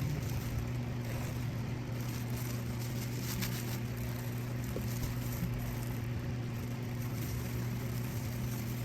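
A steady low hum that holds unchanged throughout, with a few faint soft ticks a little past three seconds in.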